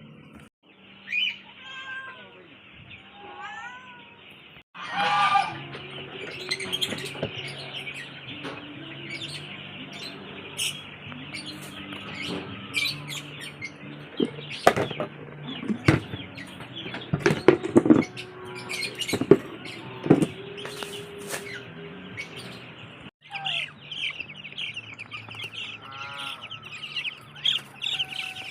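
Farmyard birds, chiefly chicks, chirping and peeping in a steady high chorus with many short sharp calls, over faint background music. The sound breaks off abruptly a few times where clips are cut together.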